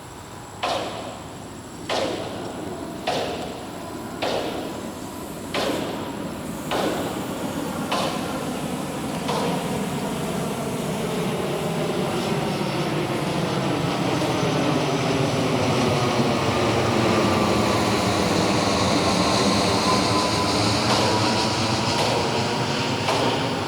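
The twin electric motors and propellers of a small RC model Boeing 787 airliner running in flight: a whine whose pitch slowly sags and rises and which grows louder toward the end. In the first ten seconds there is a string of sharp pulses about once a second.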